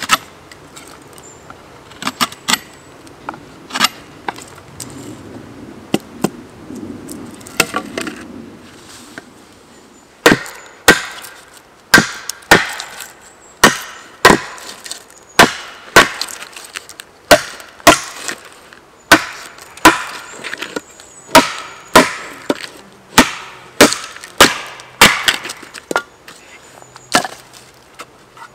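Wood being chopped by hand with a blade, sharp knocks on wood. A few scattered blows come first, then from about ten seconds in a steady run of strikes roughly one a second.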